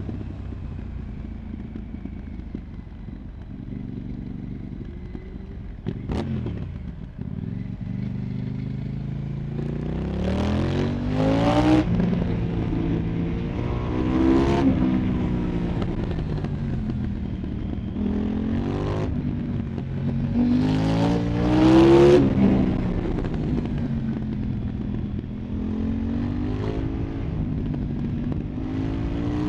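2024 KTM 990 Duke parallel-twin engine through an Arrow Pro Race exhaust, heard from the bike while riding. It runs steadily at low revs for several seconds, with a sharp click about six seconds in. It then revs up over and over as it accelerates, each rise in pitch cut off by a drop at the gear change, loudest about three quarters of the way through.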